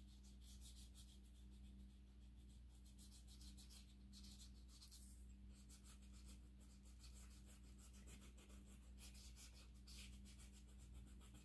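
Faint paintbrush strokes and dabs scratching on the painting surface while paint is applied, over a low, steady electrical hum.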